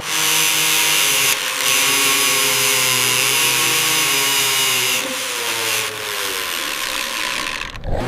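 Power tool driving a spinning brush against rusty metal: a steady, high scratchy hiss over a low motor hum. It dips briefly about a second and a half in and eases off about 5 seconds in.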